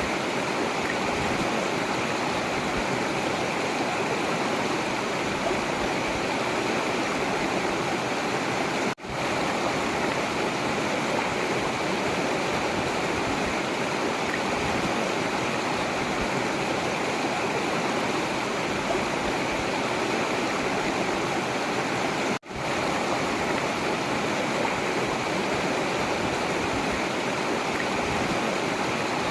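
A forest river flowing: steady rushing and splashing water at an even level. The sound briefly cuts out twice, once about a third of the way in and again about three quarters through.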